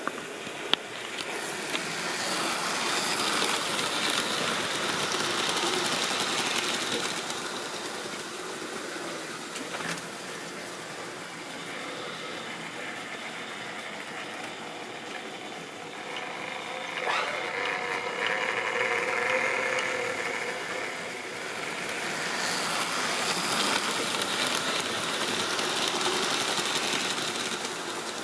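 Model railway train running on its track: the electric motor whirring and the wheels rattling on the rails. It grows louder and fades several times as the train passes near and moves away, with the odd sharp click.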